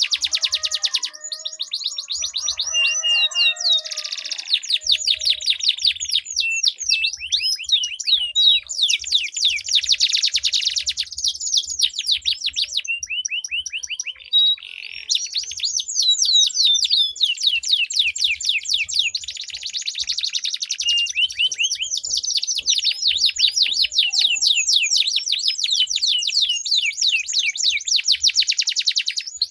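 Domestic canaries singing long rolling trills: fast runs of repeated high notes, one phrase after another, with a short pause about halfway through.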